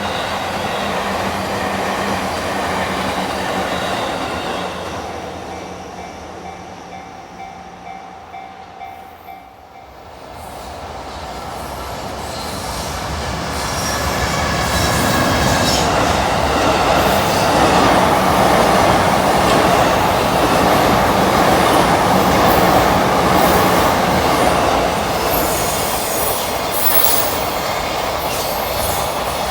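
A train running past on the line: its sound fades away to a low about a third of the way in, then another train approaches and passes, loudest in the second half, with wheels clicking over rail joints near the end.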